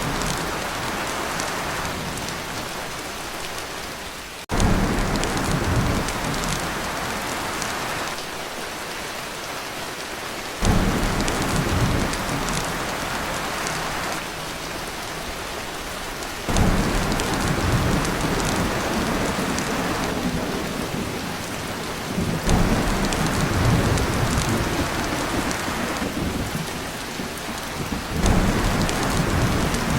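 Torrential rain drumming on a tin roof, with deep rumbles of thunder that swell in suddenly about every six seconds.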